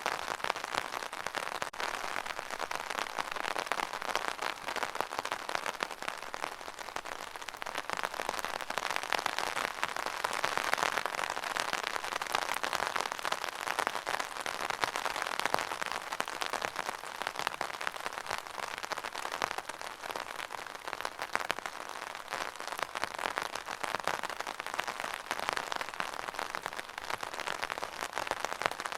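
Steady rain falling and pattering on a surface, a dense even hiss of many fine drops.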